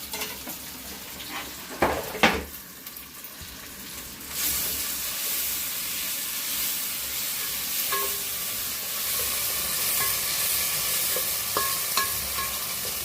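A few knocks of a utensil against a pan, then frying in hot oil starts suddenly about four seconds in and keeps sizzling steadily: the tomatoes have gone into the hot pan.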